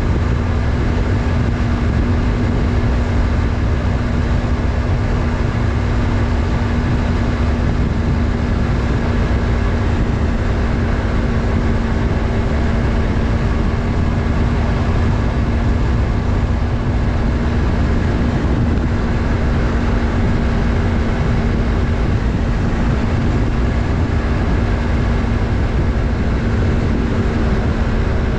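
Yamaha MT-03's 321 cc parallel-twin engine running at a steady, unchanging engine speed while the motorcycle is ridden, under a heavy low rumble of wind and road noise picked up by the on-bike camera.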